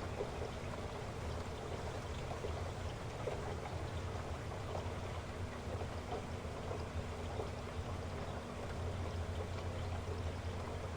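Heavy rain falling steadily, with individual drops ticking through a constant hiss and a low steady rumble underneath.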